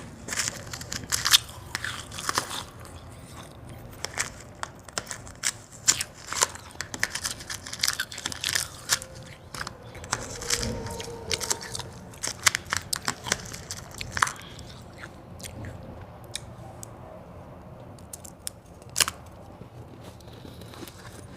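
Close-miked biting and crunching of white ice. There are dense, crisp crunches for roughly the first 14 seconds, then quieter chewing with only a few crunches and one last sharp crunch near the end.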